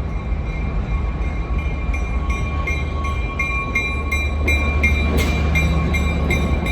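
Train running past with a steady low rumble and a steady high tone. From about two seconds in, a regular ringing tick about two and a half times a second grows louder, with a short burst of noise about five seconds in.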